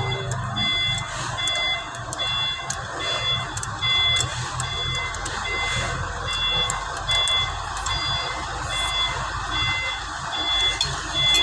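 Vehicle backup alarm beeping over and over at an even pace, over a steady low engine hum, with scattered sharp metallic clicks.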